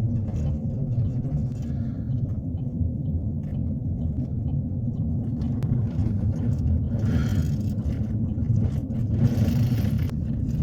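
Steady low rumble of a moving truck's engine and tyres on the road, with two brief hissing swells about seven and nine and a half seconds in.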